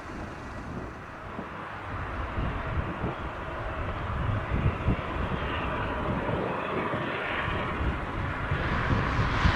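Airbus A350-1000 jet airliner's engine noise, a steady rushing hiss that grows louder toward the end, over an uneven low rumble.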